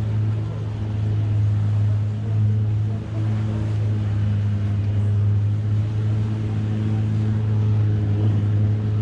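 Longtail boat engine running with a steady low drone.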